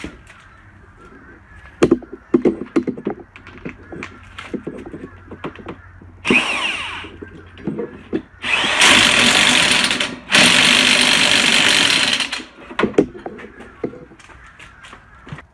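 Power drill running in two loud bursts of about two seconds each, with a shorter burst before them, amid scattered clicks and knocks of tools and metal parts being handled.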